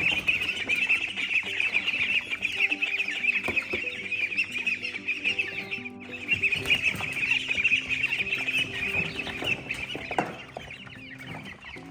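A flock of chickens clucking and chirping continuously, with a short break about halfway through. Background music with held notes plays underneath.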